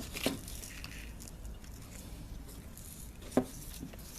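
Handling noise from firework ball shells being picked up and set down: a light knock about a quarter second in and a sharper one a little past three seconds, with faint rustling and small taps between.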